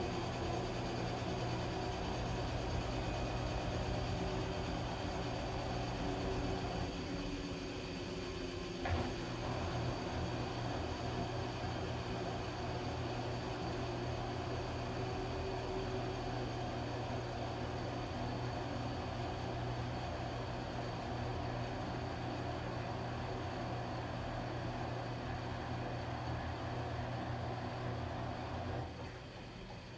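Washing machine running, a steady hum over an even whirring noise, with a faint click about nine seconds in; the sound eases off just before the end.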